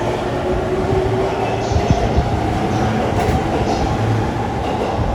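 Electric commuter train running through a station platform, a steady rumble of wheels and rails with a motor whine that rises slightly in pitch.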